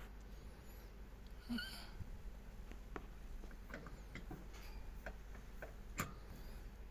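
Budgerigar's faint, scattered clicks and taps, with one short chirp about a second and a half in and a sharper click near the end.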